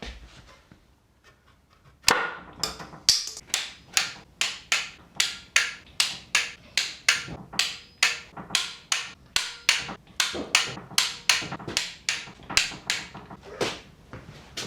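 A steady run of sharp hammer taps, about three a second, starting about two seconds in: a part being tapped home onto its locating dowel pins on an engine.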